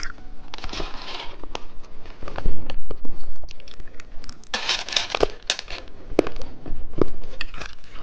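Crinkling plastic candy packaging being handled and torn open, in irregular crackly bursts with sharp clicks, the loudest about halfway through.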